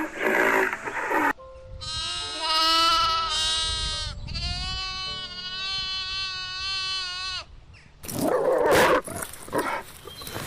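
Animal calls: a rough, noisy call, then two long drawn-out pitched bleat-like calls lasting a few seconds each, then loud rough calls again near the end.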